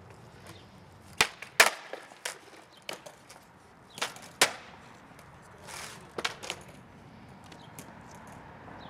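Skateboard clacking and slapping on the ground: a string of sharp knocks from the deck and wheels, two loud ones about a second in, more around four seconds and again around six, as a skater tries a hard flip.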